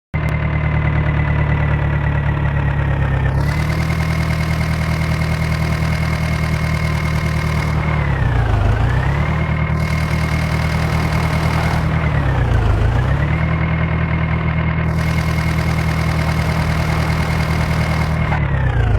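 John Deere 5055 tractor's three-cylinder diesel engine running at steady revs. It picks up slightly about three seconds in, then three times briefly drops in speed and climbs back: about 8 seconds in, about 12 seconds in and near the end.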